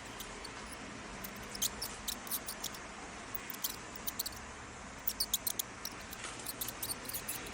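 Mouse squeaking: short, high-pitched squeaks in quick runs of several at a time, over a steady background hiss.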